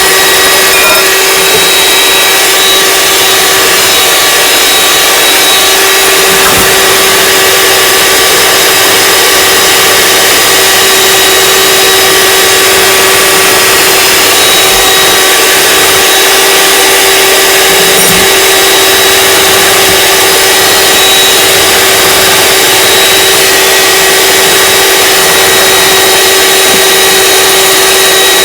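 Electric mixer motor running steadily at one speed, with a constant whine over the beaters' noise, whipping the macaron mixture.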